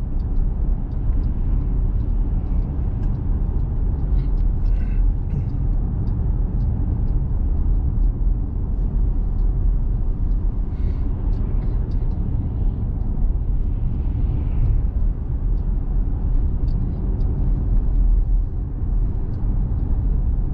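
Steady low rumble of a small truck driving on the road, engine and tyre noise with no change in pace.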